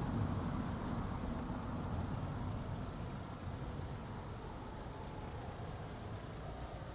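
Road noise of a car being driven: a steady low rumble of engine and tyres that gradually grows quieter.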